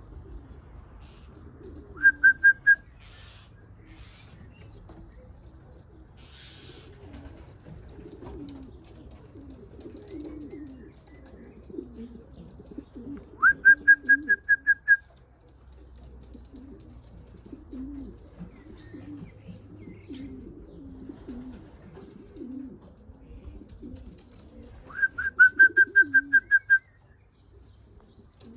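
Racing pigeons cooing steadily, with three loud bursts of rapid, evenly repeated high notes at one pitch, each lasting about a second, near the start, in the middle and near the end.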